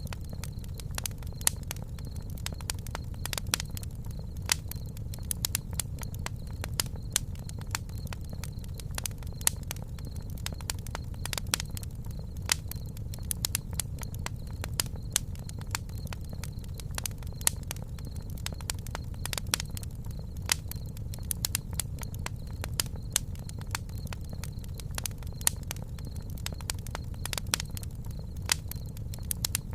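Campfire burning, with frequent irregular crackles and sharp pops over a steady low rumble of the flames.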